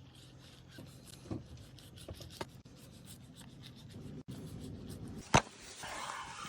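Rubbing and scraping with light clicks, like a knife working food on a board, and one sharp knock about five seconds in.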